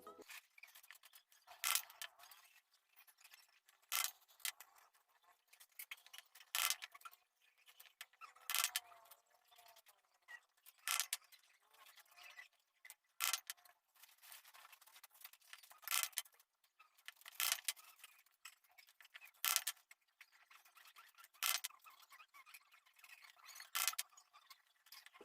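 Wire cutters snipping steel wire into short lengths: sharp snaps about every two seconds, about eleven in all, with light scraping of the wire between cuts.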